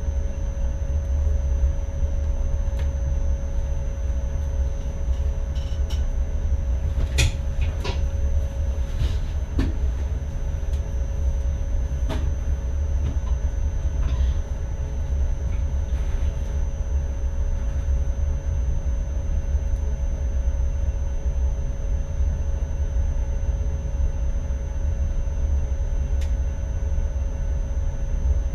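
Driver's cab of an NS ICM electric multiple unit: a steady low rumble with two constant whining tones, one mid and one high. A few sharp clicks and knocks come between about seven and sixteen seconds in, and one more near the end.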